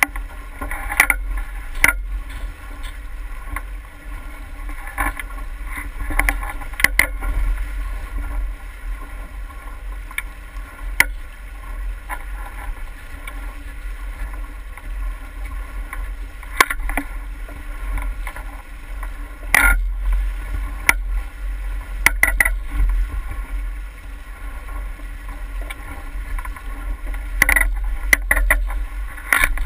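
Water sloshing against a small boat's hull, over a steady low wind rumble on the microphone, with scattered sharp knocks and clicks at irregular moments.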